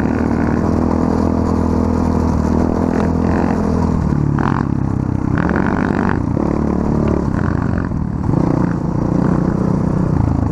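Small off-road vehicle engine running while riding, its pitch rising and falling with the throttle, with some clatter from the ride over rough ground.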